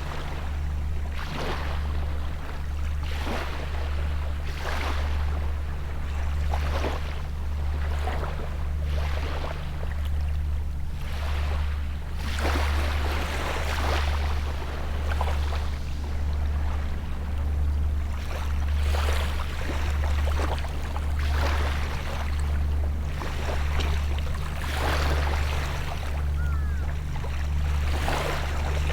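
Small sea waves breaking and washing onto the shore every second or two. Underneath runs a steady low drone.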